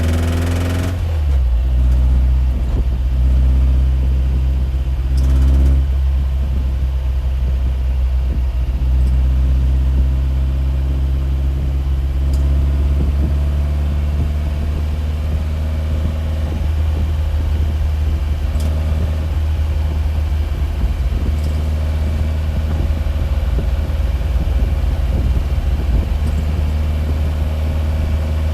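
A motor vehicle's engine running steadily, a loud low drone with several steady tones stacked above it and a few faint ticks.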